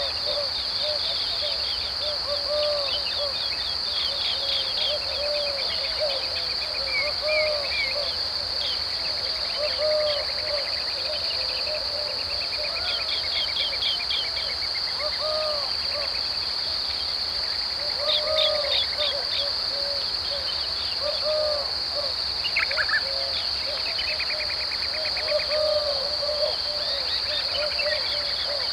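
Dry deciduous woodland ambience: a steady high-pitched insect drone under many birds calling, with short low arched calls repeated again and again and higher chirps and quick trills scattered through.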